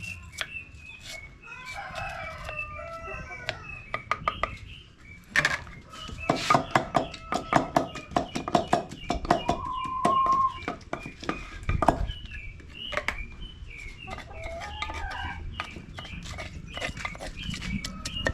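Chickens clucking, then from about five seconds in a long run of quick, sharp knocks from a wooden pestle pounding in a wooden mortar.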